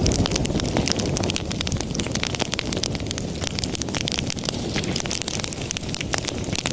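Wood fire burning in a fireplace: dense, irregular crackles and sharp pops over a steady low rush of the flames.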